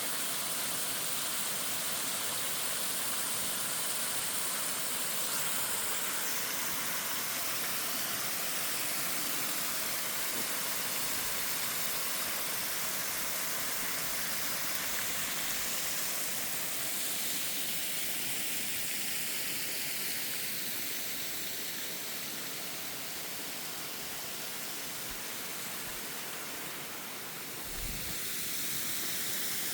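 Waterfall: a steady hiss of falling water that eases a little in the second half, with a brief low thump near the end.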